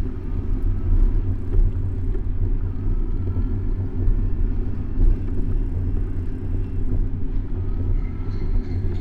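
Steady low rumble of wind and road noise on a bicycle-mounted action camera while riding, with traffic sounds mixed in.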